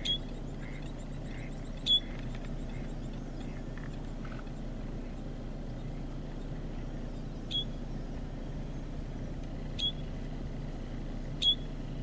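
Five short, sharp bird call notes at irregular intervals a couple of seconds apart, over a steady low rumble, with faint chirping in the background.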